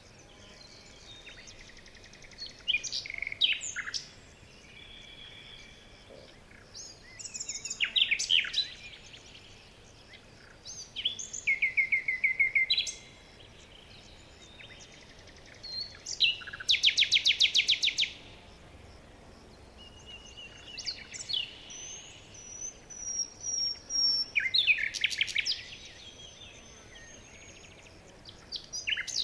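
Songbirds singing, short song phrases every few seconds with pauses between, one of them a rapid even trill about halfway through, over a faint steady hiss.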